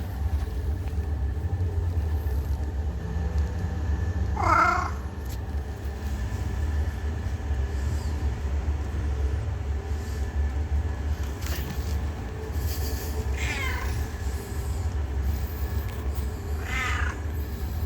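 An old cat meowing three times, several seconds apart, the first call the loudest, over a steady low rumble.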